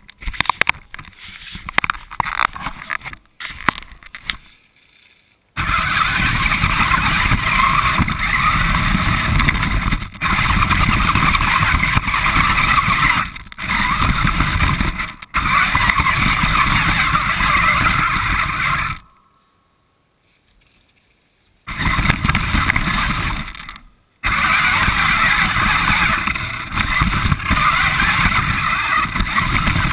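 A radio-controlled car driving, heard from a camera mounted on the car itself: loud, rough running noise from its wheels and motor over the ground. The noise is choppy at first, breaks off briefly several times, and stops for a couple of seconds about two-thirds of the way through.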